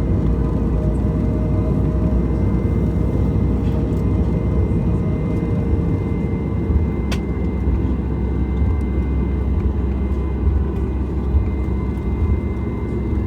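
Inside the cabin of a Boeing 737 MAX 8: its CFM LEAP-1B turbofan engines running at low power, a steady rumble with a faint steady whine. One sharp click about halfway through.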